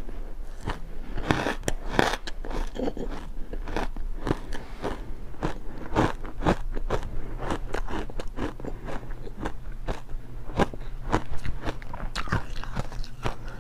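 Close-miked biting and chewing of refrozen block ice chunks coated with matcha powder: a rapid, irregular run of crisp crunches, several a second.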